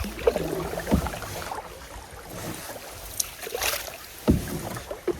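Knocks and bumps in an aluminium or plastic canoe, as gear and bodies shift against the hull, over a light wash of water and wind. The loudest knocks come about a second in and again a little after four seconds.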